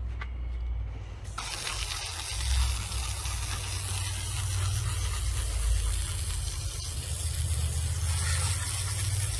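A steady spraying hiss starts about a second and a half in and keeps going, over a low, steady engine hum.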